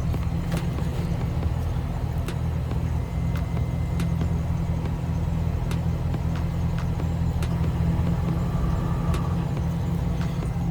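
Chevrolet Silverado's 5.3-litre V8 idling steadily, heard from the rear near the tailpipe. The idle is an even low rumble with no change in revs.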